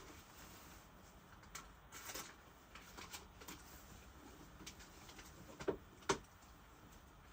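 Quiet indoor background with scattered light clicks and a brief rustle, then two sharp knocks about half a second apart, as of objects being handled and set down.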